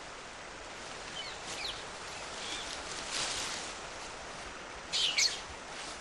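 Outdoor nature ambience: a steady even hiss with a few short, high bird chirps, a faint pair about a second and a half in and a louder cluster near the end.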